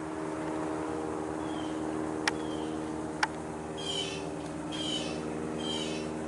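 A bird calling over and over in short high calls, coming a little under a second apart, over a steady low hum. Two sharp clicks sound near the middle.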